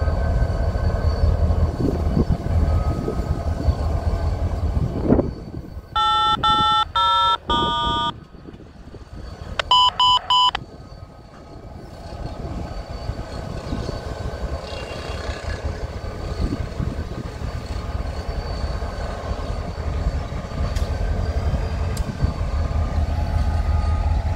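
A track inspection train rolling slowly past with a steady low rumble that drops away about five seconds in. Then come two quick runs of short electronic tone beeps, louder than the train, and a quieter low rumble continues after them.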